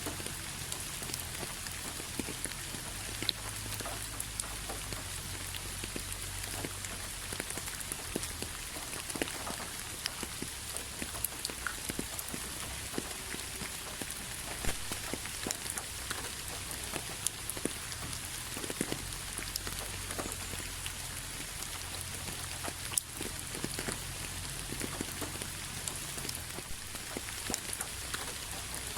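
Steady rain falling on a hard surface, an even hiss with many single drops ticking sharply through it and a low rumble underneath.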